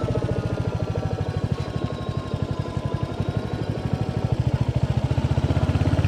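Royal Enfield Hunter 350's single-cylinder engine running on the move, with a steady beat of exhaust pulses. The revs drop for a couple of seconds around the middle, then pick up again.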